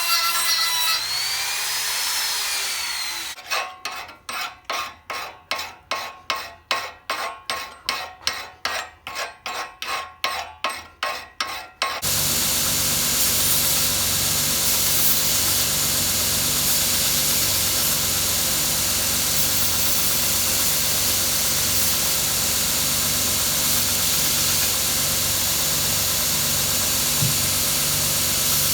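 A hand file rasping on forged steel in regular strokes, about two a second, for roughly eight seconds. Then, about twelve seconds in, an electric grinder starts and runs steadily with a low motor hum, grinding the axe head.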